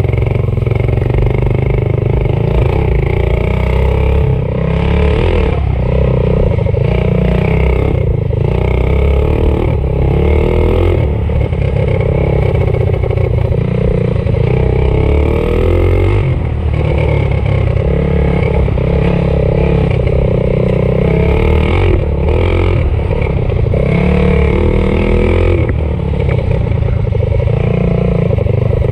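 Stage 4 modified Predator 212cc single-cylinder four-stroke minibike engine running hard under load. Its revs rise and fall repeatedly, as on throttle changes.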